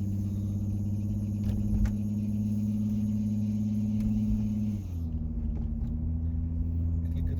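Car running, heard from inside the cabin as a steady low engine and road hum; its pitch drops slightly about five seconds in as the engine speed falls.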